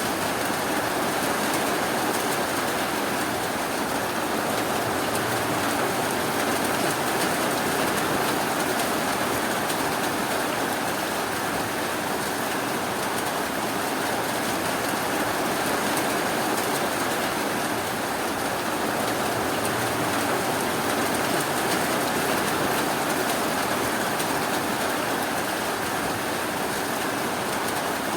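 Steady rainfall, an even rushing hiss with no distinct drops or thunder standing out.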